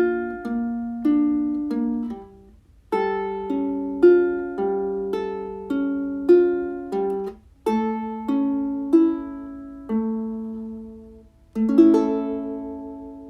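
Slow solo melody on a plucked string instrument, single notes and chords that each ring and fade, in short phrases with brief pauses between them.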